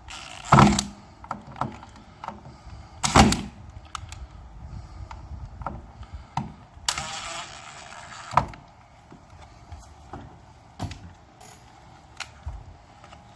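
Cordless screw gun driving a small set screw into a hole drilled in a window crank's shaft, running in a few short bursts with small clicks and knocks of handling between.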